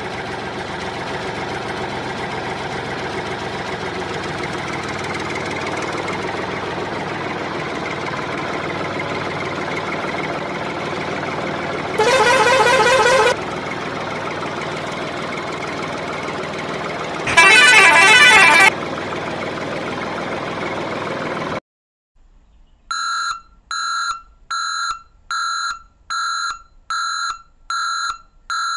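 Truck engine running steadily, with two long horn blasts about halfway through. The engine then cuts off, and a run of about eight short, evenly spaced beeps follows near the end.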